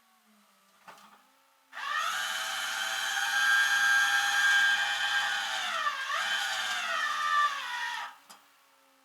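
A power tool's electric motor whining steadily for about six seconds. Its pitch dips briefly as it takes load near the end, and it stops abruptly with a click.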